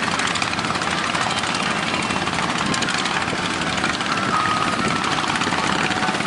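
A boat engine running steadily under a dense rushing noise of wind and waves, with no change in pace.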